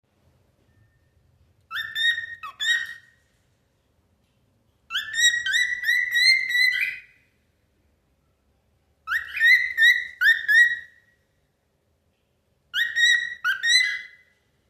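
Pet cockatiel singing: four short phrases of quick whistled notes, with pauses of about two seconds between them.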